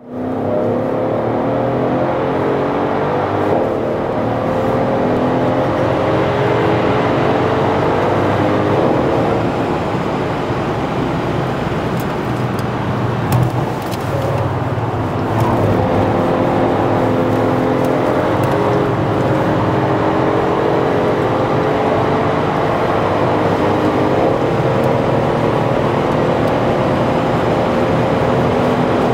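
Mercedes ML63 AMG's V8 engine, heard from inside the cabin, pulling hard under full acceleration. Its pitch climbs steadily in long pulls and drops back at a couple of gear changes, over a constant rush of tyre and road noise. A few sharp clicks come about halfway through.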